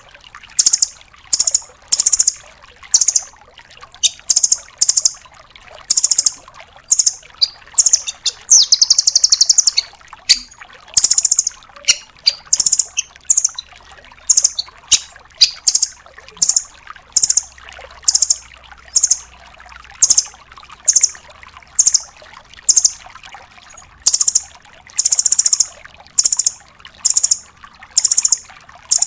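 Velvet-fronted nuthatch calling: short, very high-pitched bursts of quick chirps, about one burst a second. A longer, fast, buzzy trill comes about eight seconds in.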